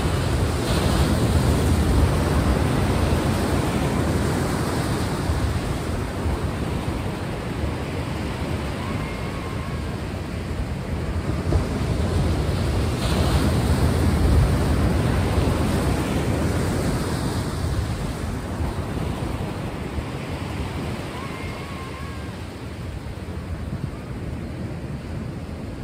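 Ocean surf: waves washing in as a steady rush, swelling and easing in slow surges.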